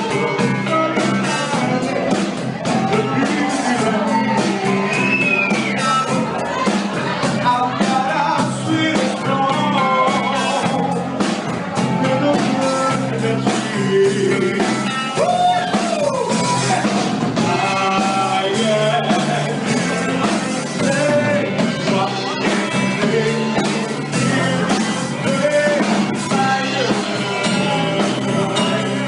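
Live soul band playing, with a singer over a steady beat.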